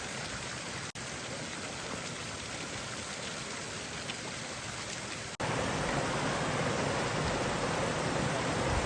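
Steady rushing water of a river and waterfall. The sound drops out briefly twice and is louder after the second break, a little past halfway.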